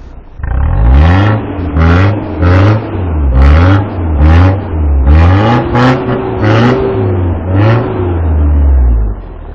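Off-road 4x4's engine revving in repeated surges, about one a second, pitch rising and falling with each throttle push as it climbs a snowy, icy trail.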